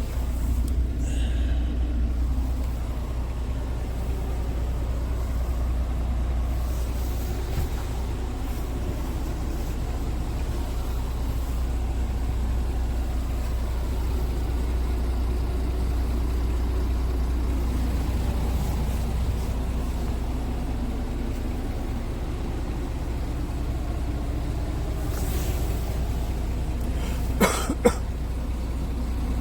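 Scania S410's 13-litre straight-six diesel running steadily with a low, even rumble. Two short sharp clicks come near the end.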